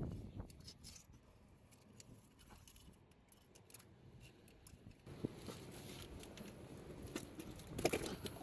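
Faint scattered clicks and light scraping, as of stones and shells being handled and knocked. A steady rushing haze comes in about five seconds in.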